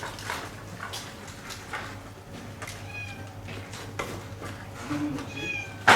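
A cat meowing, one short call about three seconds in and another near the end, over scattered light clicks and knocks. A sharp knock at the very end is the loudest sound.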